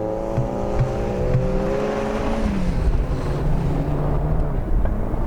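A rallycross car's engine running hard on the course, its pitch holding and rising slightly, then dropping away about halfway through to a lower, wavering note.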